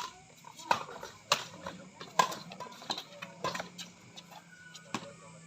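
Badminton rackets hitting the shuttlecock in a fast doubles rally: a string of sharp hits, several under a second apart, with faint voices underneath.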